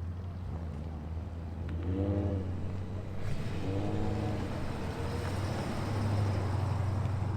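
A muscle car's exhaust rumbling at low revs, with two short throttle blips about two and four seconds in, getting a little louder near the end.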